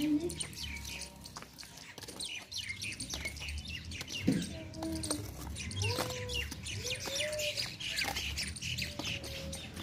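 Small birds chirping busily throughout, with a few lower, longer calls among them. A single thump comes about four seconds in.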